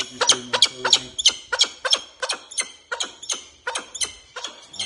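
Peregrine falcon calling from its aviary: a long run of short, harsh, repeated calls, about three to four a second.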